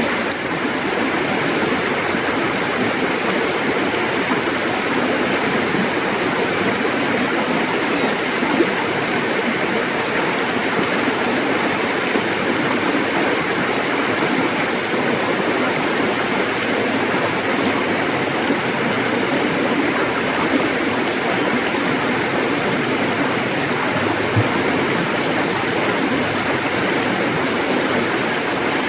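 River water rushing and babbling steadily over rocks.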